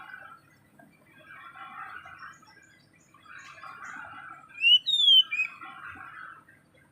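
A small bird chattering softly in repeated short warbling phrases, with one loud, sharp whistled call about two-thirds through that sweeps up and then falls in pitch.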